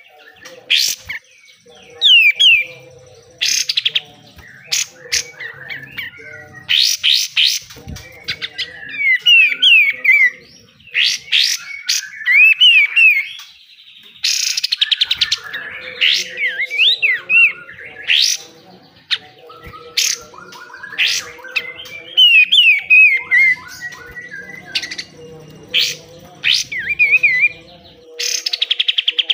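Kapas tembak bulbul singing: loud bursts of rapid, harsh rasping notes (besetan) alternating with quick whistled notes that slide up and down, in phrases with short gaps between them.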